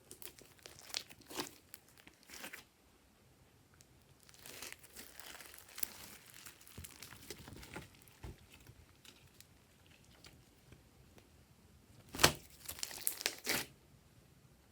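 Glossy slime worked by hand: sticky crinkling and popping in scattered short bursts, with the loudest run of pops near the end.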